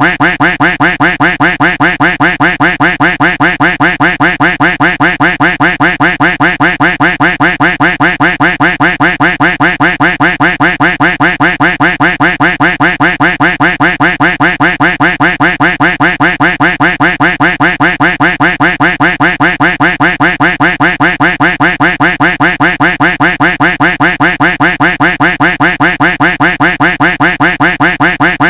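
Duck quack sound effect looped without pause: the same short quack repeated in rapid, evenly spaced succession, several times a second.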